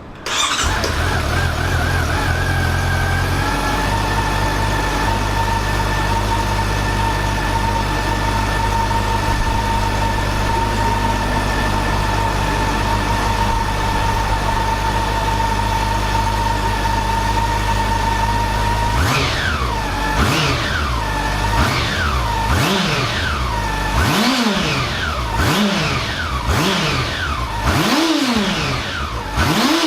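Honda CB400 Super Four VTEC Revo's inline-four engine, on its stock muffler, starting just after the beginning and idling steadily, with a slightly faster idle for the first few seconds. From about two-thirds of the way in, it is revved in a series of quick throttle blips, each rising and falling back to idle, and revving up cleanly.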